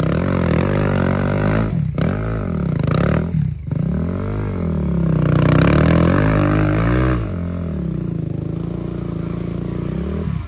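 Motocross motorcycle engines revving, their pitch rising and falling over and over, with brief drops about two seconds in and again a little later, then running steadier for the last few seconds.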